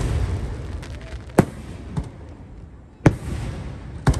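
Aerial firework shells bursting overhead: several sharp booms at irregular intervals, the loudest about three seconds in and a quick double bang near the end, each trailed by a rumbling echo.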